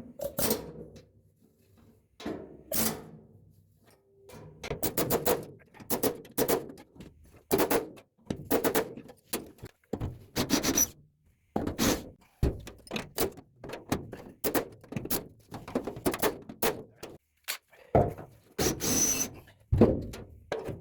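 A run of irregular knocks and thunks on sheet metal, roughly one or two a second with a short pause early on, some ringing briefly, while the spot-welded floor pan is being worked on.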